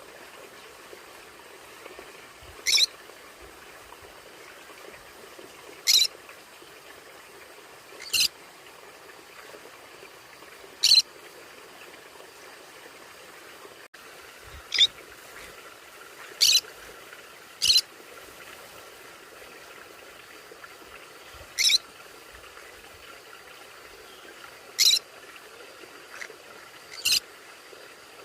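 A conure (small parrot) giving short, sharp, high-pitched calls: about ten single calls, two to four seconds apart, over a faint steady background hiss.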